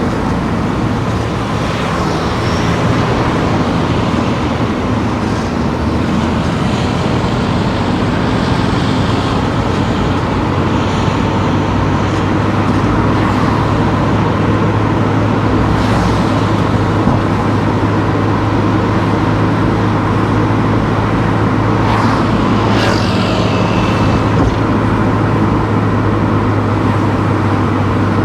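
Car driving on town streets: a steady engine hum and tyre and road noise, with a few brief high-pitched sounds past the middle.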